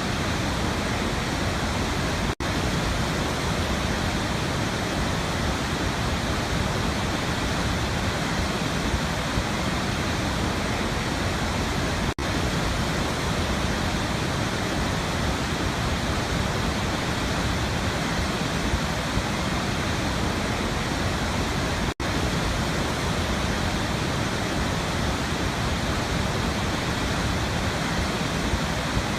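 Waterfall: a steady, even rush of falling water. It cuts out for a split second three times, about ten seconds apart.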